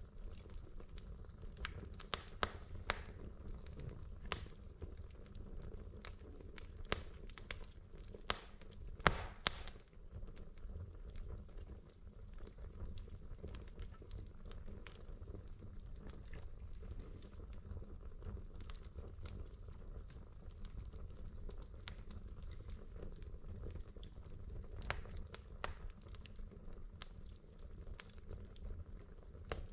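Wood fire in a fireplace crackling over a low steady burning rumble, with irregular sharp pops and snaps of burning logs, busiest in the first third, including a short hissing flare about nine seconds in.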